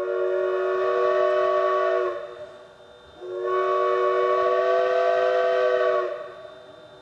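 Steam locomotive's chime whistle sounding two long blasts, each a steady chord of several notes, the second starting about three seconds in. Two long blasts is the standard railroad signal to release brakes and proceed.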